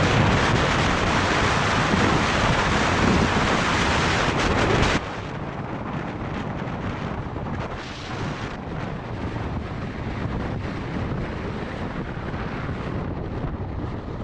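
Wind rushing over the microphone on a moving motorcycle, a loud steady rush that drops abruptly to a quieter rush about five seconds in.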